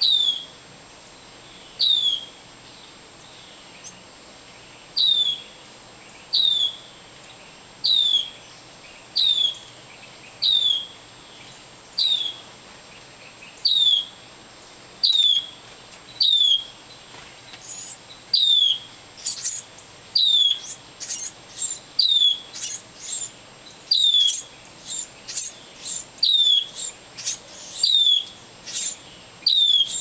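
A songbird calling: a short, falling note repeated about once every second and a half. From a little past the middle, quicker, higher calls join in between.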